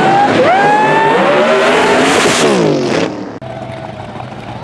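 Drag race cars at full throttle: engine pitch climbs, drops at a gear shift about half a second in and climbs again, then slides down as the cars pass by. The loud engine sound cuts off abruptly about three seconds in, leaving a quieter background.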